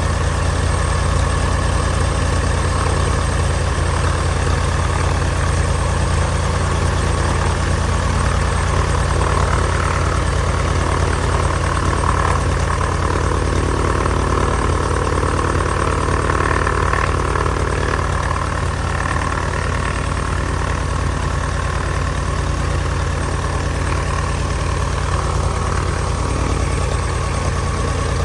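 1948 Cessna 170's six-cylinder Continental aircraft engine idling steadily on its first run after sitting unused.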